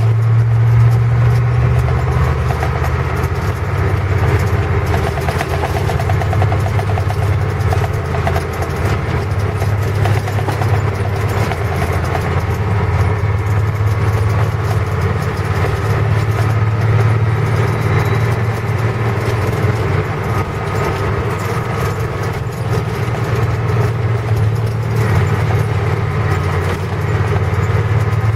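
A large engine running steadily, a loud even drone with a strong low hum.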